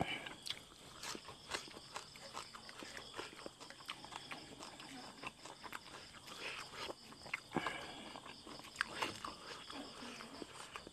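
Close-miked eating sounds: chewing, lip smacks and small mouth clicks as food is eaten, irregular and fairly quiet. A steady high insect chirring runs underneath.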